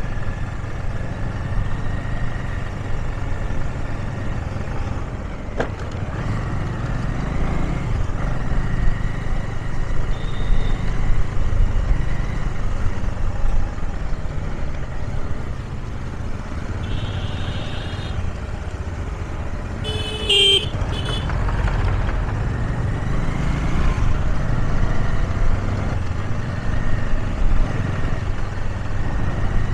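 Motorcycle running at low speed in road traffic, with a steady engine rumble. Another vehicle's horn honks loudly about twenty seconds in, with fainter toots around ten and seventeen seconds.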